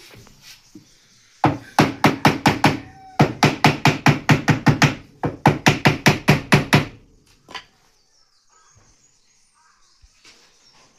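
Rapid series of sharp knocks, about five a second, in three runs over about five seconds, then a single knock.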